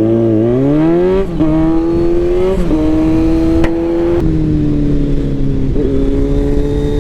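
Motorcycle engine under way, rising in pitch for about a second, then dropping with gear changes about a second in and again around four seconds, then running steady, with rushing wind noise underneath.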